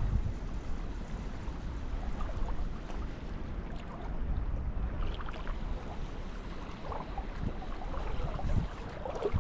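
Wind rumbling on the microphone over the steady rush of river water, with a few faint small ticks and splashes.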